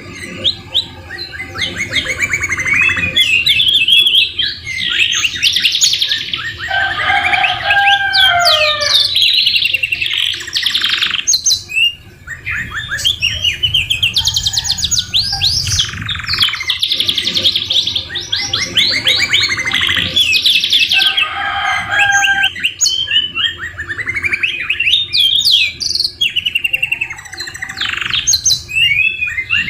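Domestic canary singing a long, continuous song of rapid trills and rolls, broken only by a short pause about twelve seconds in. Twice it drops into lower warbled phrases, part of a song filled with white-rumped shama (murai batu) phrases.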